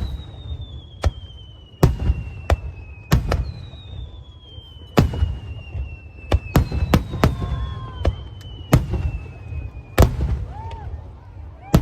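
Aerial fireworks bursting overhead: about a dozen sharp bangs at irregular intervals over a low rumble, with long whistling tones that slowly fall in pitch.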